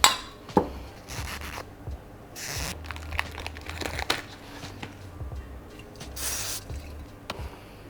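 Hands cleaning steel engine bearing caps with a rag or paper towel: rubbing and crinkling, a few light metal clicks, and two short hissing bursts about two and a half seconds and six seconds in.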